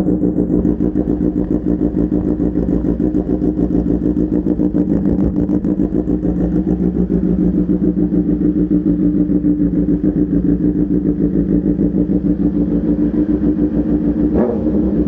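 BMW motorcycle engine breathing through an Arrow full header and aftermarket slip-on exhaust, idling steadily with an even pulsing beat. There is a brief sharper sound near the end.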